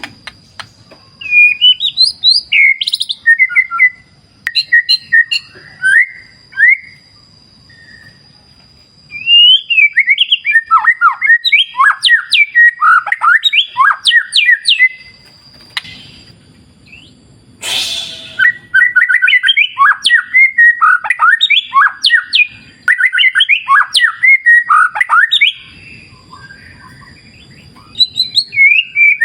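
White-rumped shama (murai batu) singing in long runs of rapid, varied whistled notes that sweep up and down, with short pauses between the runs. A thin steady high tone comes and goes behind the song, and a brief rushing noise sounds once about two-thirds of the way through.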